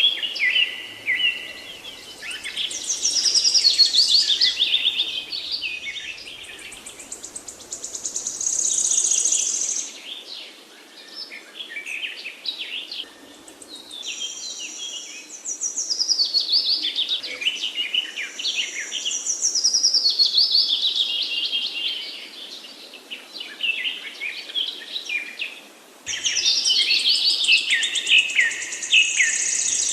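A songbird singing in long phrases of rapid, varied, high notes, each phrase lasting a few seconds, with short quieter gaps between phrases.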